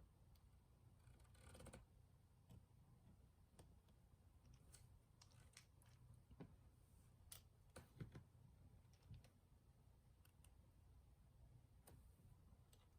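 Near silence with a faint low hum and scattered light clicks and taps, a little louder around a second and a half in and again near the middle.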